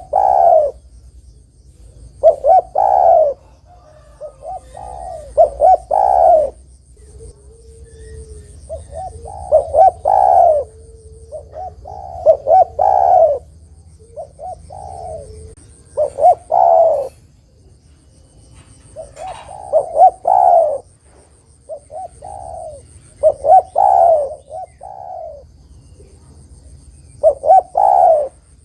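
Spotted dove (derkuku, tekukur) cooing over and over, in phrases of two to four short coos that recur every few seconds. A faint steady high-pitched whine comes and goes in the background.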